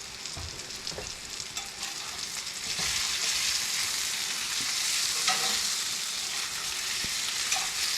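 Squash and onions sizzling as they fry in a pan, a steady hiss that grows louder about three seconds in, with a few light clicks.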